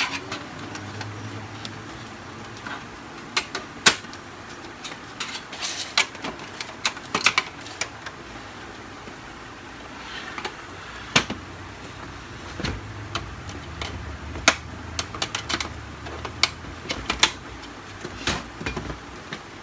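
Plastic clicks, snaps and knocks as the snap-fit outer covers of a Canon LBP 6030 laser printer are unlatched and handled, irregular and scattered throughout, sometimes several in quick succession.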